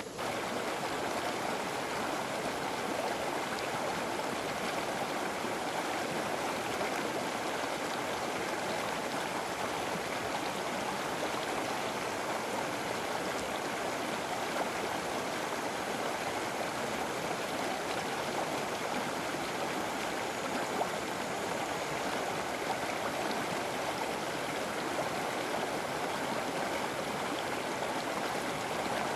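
River water flowing steadily, a continuous even rush and gurgle with no let-up.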